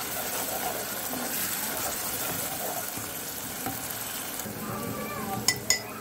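Grated tomato and fried onion sizzling in a saucepan while a wooden spatula stirs them. Two sharp clicks come close together near the end.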